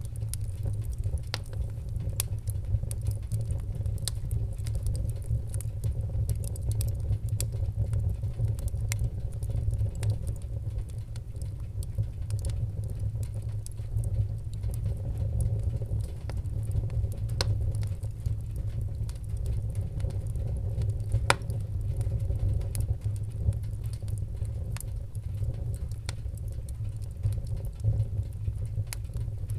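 Wood fire in a fireplace burning steadily, with a low rumble of flame and frequent sharp crackles and pops at irregular intervals.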